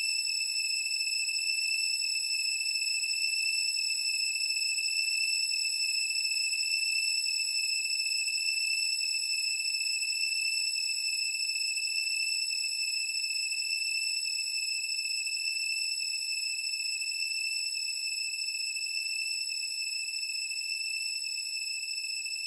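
A continuous high-pitched electronic tone, one steady pitch with no pulsing or warble, easing off a little in loudness near the end.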